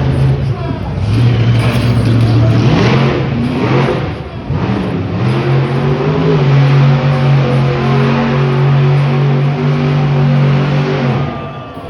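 Monster truck engine running loud, revving up twice in rising sweeps about three and five seconds in, then held at steady high revs before dropping off near the end.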